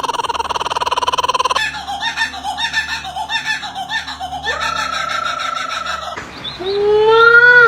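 A string of separate bird calls joined by abrupt cuts. First comes a buzzing trill, then choppy chattering, then a rising whistle. Near the end a run of upward-sliding notes grows loud, with a laugh-like or scream-like quality.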